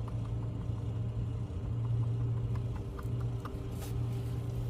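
A steady low machine hum, with small clicks and taps of handling over it.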